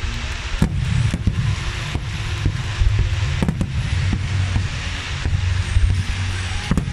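Large fireworks display: a wide front of fan-shaped star mines and aerial shells firing and bursting, giving a continuous low rumble with many sharp booms scattered through it and a steady hiss of sparks.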